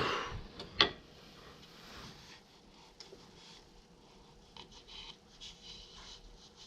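Faint hand rubbing and scraping on a wooden workpiece, with scattered small ticks and one sharp click just under a second in.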